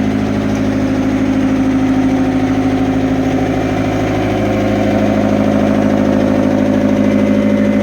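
Fiat Hitachi FH150 excavator's Iveco 8045 diesel engine running steadily, with a slight rise in level about five seconds in. The engine is being given a longer run than before, with the owner watching for overheating.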